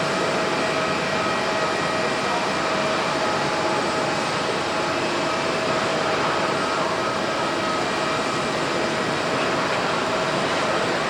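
Jet airliner engines running: a steady rush of noise with a few high whining tones held level throughout.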